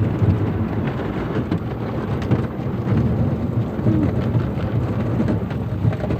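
Automatic car wash running over the car, heard from inside the cabin: water spray and wash equipment hitting the body and windows in a dense, uneven clatter.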